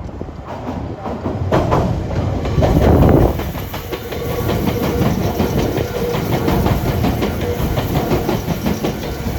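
Meitetsu electric train crossing the Biwajima junction points, its wheels clattering over the rail joints and switch gaps in a rapid run of knocks. The clatter is loudest about three seconds in.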